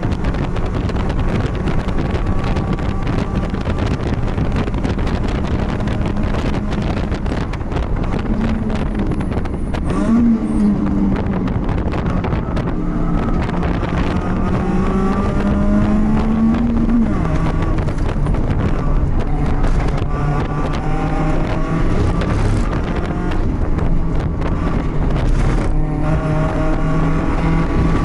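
BMW race car engine running hard, heard from inside the car with wind noise. Its pitch holds mostly steady, climbs gradually for several seconds about a third of the way in, then drops, with smaller changes later.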